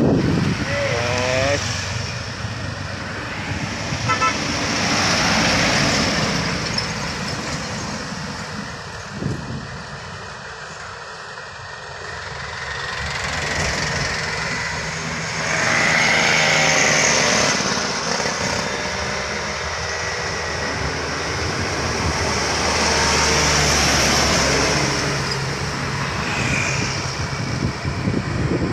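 Heavily loaded sugarcane trucks' engines working hard at full throttle through a sharp bend, passing one after another, so the sound swells and fades three times. The pitch rises and falls as they go by.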